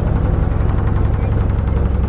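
A Gemini 105MC catamaran's engine running under way, a steady low drone.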